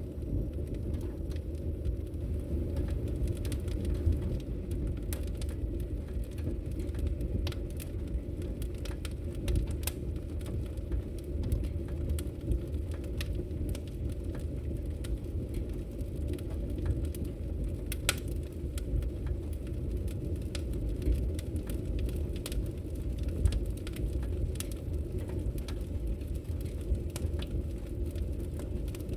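Wood logs burning in a fireplace, crackling with scattered irregular pops and snaps over a steady low rumble.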